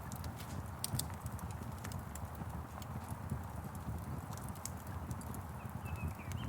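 Wood fire crackling: irregular sharp pops and snaps over a low, steady rumble of burning. A bird chirps briefly near the end.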